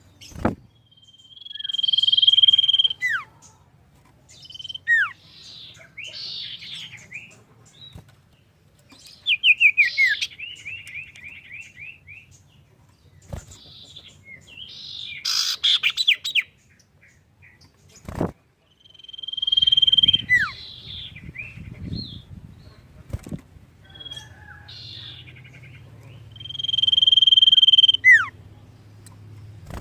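An iora (sirtu/cipoh) singing in loud repeated phrases. Each phrase is a long, even whistle that ends in a quick falling slide, and these phrases are mixed with rapid descending trills and chatter. There are a couple of sharp knocks, one near the start and one past the middle.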